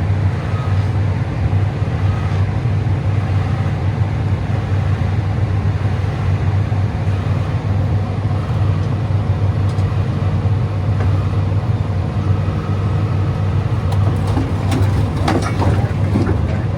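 Heavy diesel engine of an excavator running steadily, a deep unbroken drone.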